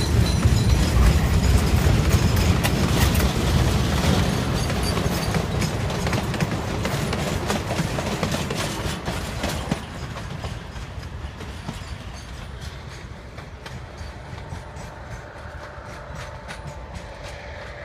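Freight wagons of a metre-gauge cargo train rolling past close by, their wheels clacking over the rail joints. After about ten seconds the sound fades as the tail of the train passes and it rolls away.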